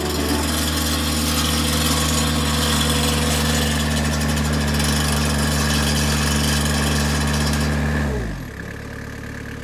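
Vermeer skid steer loader's engine running steadily at high revs while it drives the hydraulic wire winder. About eight seconds in it throttles down, falling in pitch and loudness to a lower idle.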